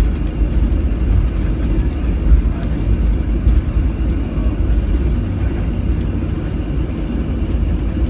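Cabin noise of a Boeing 737-700 on the ground before takeoff: a steady low rumble from the idling engines and the airframe.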